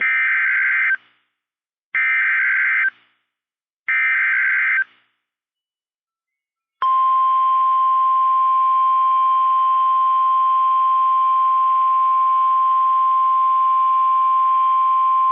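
NOAA Weather Radio alert signal: three one-second bursts of SAME digital header data, each a harsh buzz of rapidly alternating tones, then after a short pause the steady single-pitch warning alarm tone starting about seven seconds in. Together they signal that a warning is about to be broadcast.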